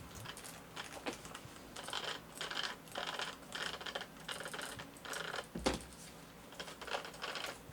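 Light, irregular clicking and rattling from a Tamiya BB-01 RC car's drivetrain and chassis as its wheels are worked by hand to test the gear differential, which is filled with very heavy diff fluid and feels super stiff. One sharper knock comes about halfway through.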